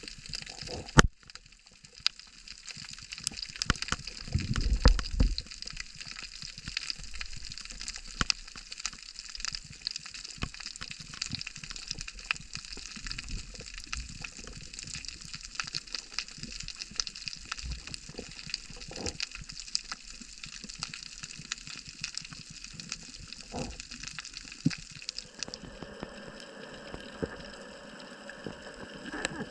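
Sea water sloshing and splashing, with a steady fizz of many tiny clicks and crackles. There is a sharp knock about a second in and a low rumble around five seconds in.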